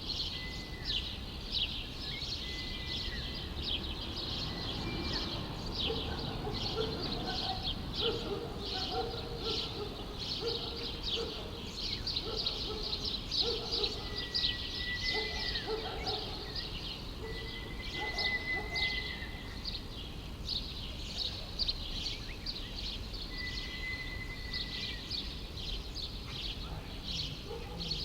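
Many small birds chirping continuously in dense, rapid chatter over a low steady city background hum, with a few held, steady notes of about a second each now and then.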